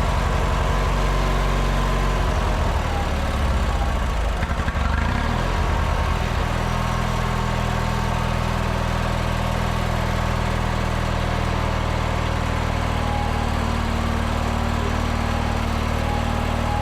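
Small gasoline engine running just after a cold start on choke, uneven for the first several seconds and then settling into a steady idle: the hard-start trouble appears cured.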